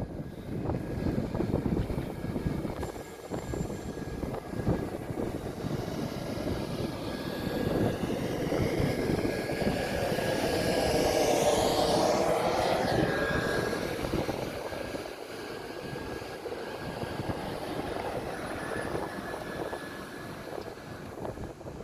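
SNCB electric train with M6 double-deck coaches moving through the station, a steady rumble with a faint high tone that grows louder to a peak about halfway through and then eases off.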